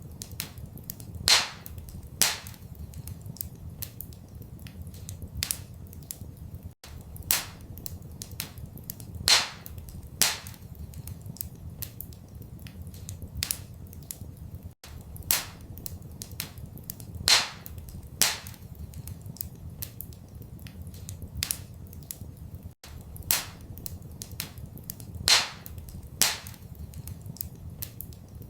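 Wood fire crackling in a fireplace: scattered sharp pops and snaps over a low steady rumble. The same pattern of pops repeats about every eight seconds.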